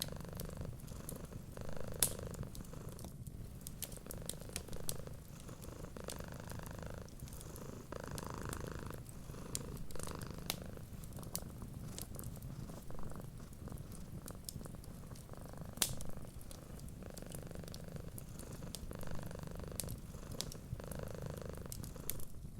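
Cat purring steadily, its low rumble swelling and easing about every two seconds, with the sharp pops and crackles of a wood fire scattered through it, two louder pops about two seconds in and near the middle.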